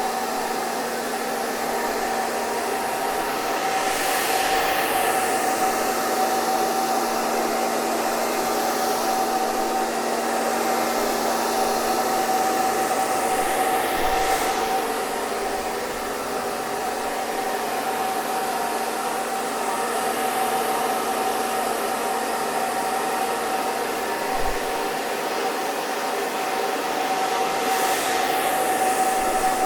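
Hair dryer running continuously: a steady rush of air with a motor whine and low hum, and a few slow sweeping shifts in the hiss.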